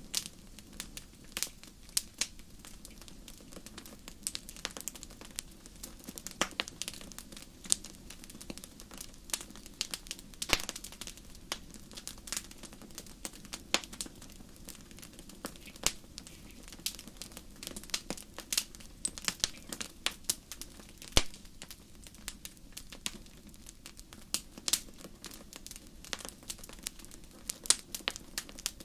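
Wood fire crackling: irregular sharp pops and snaps, several a second, over a low steady rumble of the flames.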